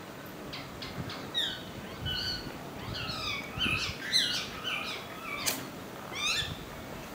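Birds calling in bursts of short chirps that sweep down in pitch, repeated in clusters over several seconds, with one sharp click about five seconds in.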